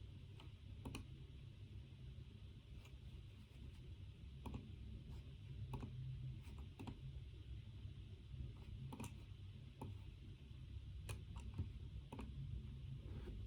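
Scattered, irregular keystrokes on a computer keyboard, a dozen or so light clicks, some in quick pairs, over a steady low room hum.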